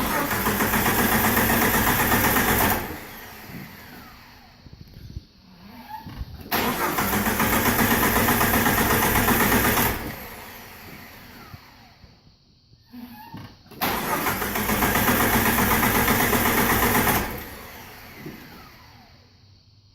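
Jeep Wrangler TJ's 4.0-litre inline-six being cranked on the starter in three bursts of about three seconds each, with a quick, even pulsing rhythm, each stopping without the engine catching: a no-start condition.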